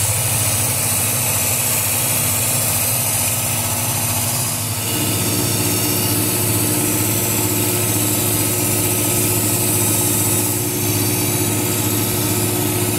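Work Sharp Ken Onion Edition electric belt sharpener running steadily, its motor driving the abrasive belt as a hand-forged kitchen knife's edge is ground. The tone changes about five seconds in and then holds steady.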